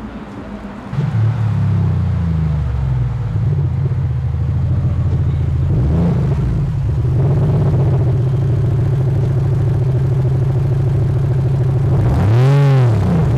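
Engine of a Martini-liveried Porsche 935-style car running with a steady low rumble at low speed. Near the end there is one quick rev blip that rises and falls in pitch.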